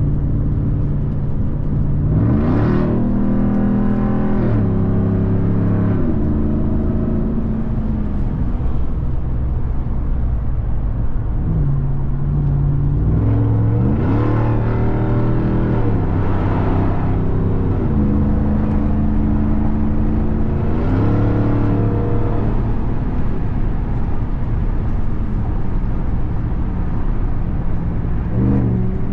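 2021 Ram 1500 TRX's supercharged 6.2-litre Hemi V8 accelerating hard and shifting up through the gears: the pitch climbs quickly and drops at each upshift, in runs about two seconds in, about thirteen seconds in and again near the end, with steady cruising between.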